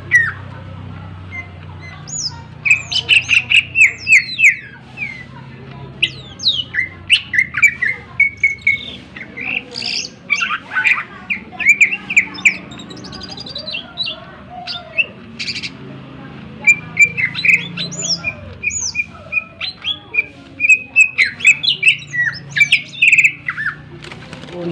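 Green leafbird (cucak ijo) singing loudly in a varied, rapid song of sharp chirps and fast whistled glides, delivered in bursts with short pauses, over a faint low hum.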